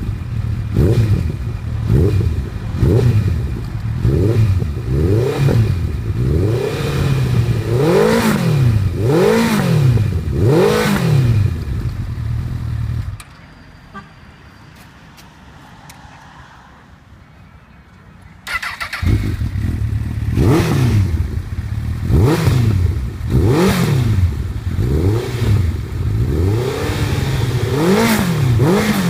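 Honda CBF1000 FA inline-four engine revved in repeated short blips through aftermarket slip-on silencers. Each blip rises and falls in pitch, about once a second. A quieter break of several seconds comes in the middle, then the revving resumes.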